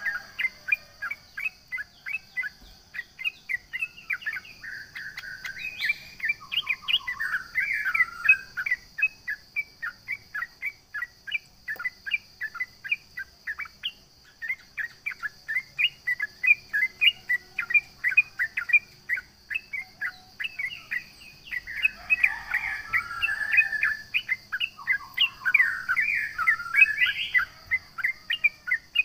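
Yellow-vented bulbul (trucukan) singing hard: a fast, unbroken run of short chirps, several a second, twice swelling into fuller warbled phrases.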